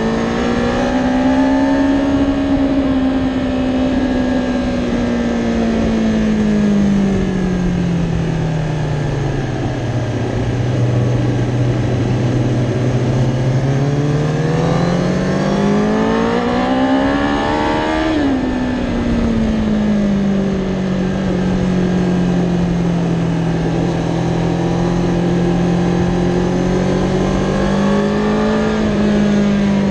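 Kawasaki Ninja ZX-10R's inline-four engine heard from on board at speed. The revs sag slowly for several seconds, then climb hard to a peak about eighteen seconds in. There they drop sharply at an upshift from second to third, and the engine then holds steady revs until the end.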